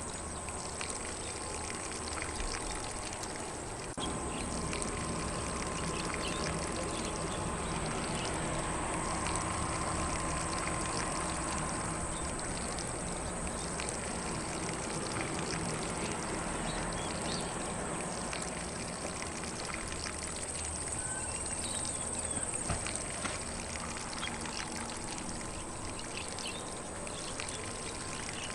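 Lawn sprinkler spraying water steadily over grass, a continuous pouring hiss, with faint bird calls in the background.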